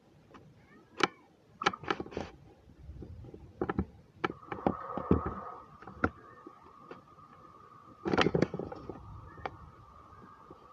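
Scattered clicks and knocks of small objects being handled and set down. About four seconds in, a steady high hum starts and keeps on.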